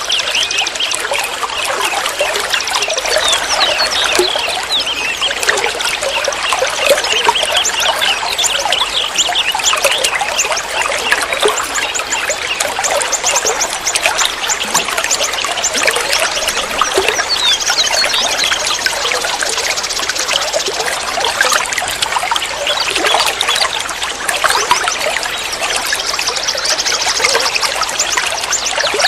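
Flowing water trickling and gurgling steadily, with high bird trills breaking in a few times over it.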